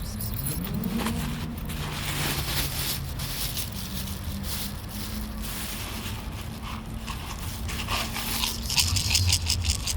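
Cats crunching and chewing dry food: a rapid, irregular run of crunches, thickest near the end.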